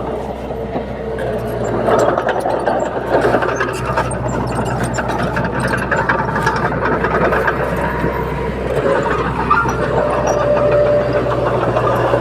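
Bulldozer's diesel engine running steadily, with many short clicks and knocks over the engine sound.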